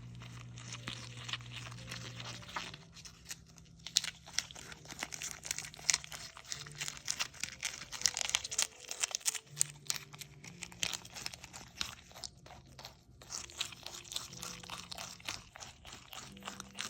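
A capybara chewing a crunchy snack: dense, irregular crunching and crackling bites, several a second, with short pauses.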